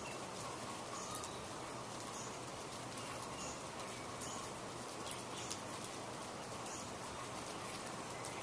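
Outdoor nature ambience: a short, high chirp repeated roughly once a second over a steady hiss, with a few faint clicks.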